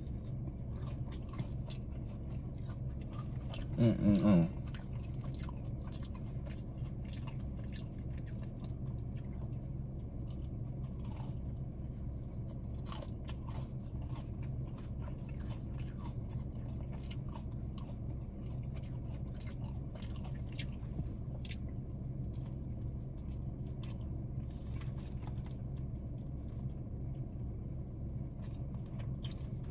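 Close-up chewing and crunching of fried chicken, with many small crisp crackles throughout. A short vocal sound from the eater about four seconds in is the loudest moment, and a steady low hum runs underneath.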